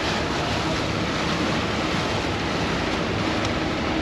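Vaporetto water bus under way: a steady engine hum under a constant rush of water and wind.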